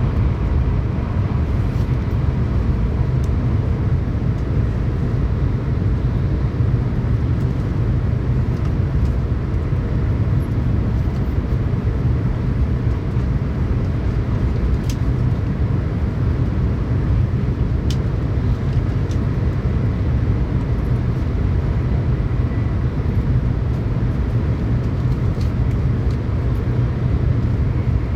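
Tokaido Shinkansen train running at speed, a steady low rumble of running noise heard from inside the passenger car, with a few faint clicks.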